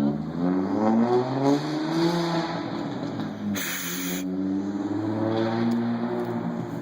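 Audi S4 B5's twin-turbo 2.7-litre V6, straight-piped with stage 3 turbos, accelerating with a rising pitch, then easing off. A short, sharp hiss about three and a half seconds in, then the engine pulls steadily again.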